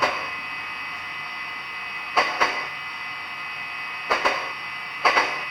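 Sound decoder of a DCC model Big Boy steam locomotive, moving off at its slowest speed step: slow exhaust chuffs, mostly in pairs about two seconds apart, over a steady background hiss.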